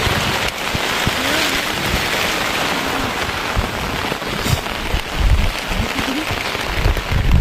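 Steady rain falling, with low thuds in the last couple of seconds.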